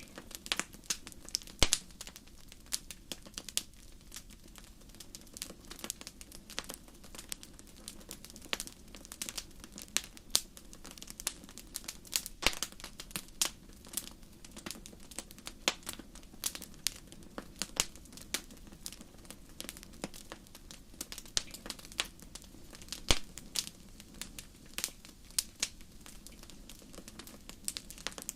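Wood campfire crackling: irregular sharp pops and snaps, several a second, with a few louder pops standing out, over a steady low rush of the flames.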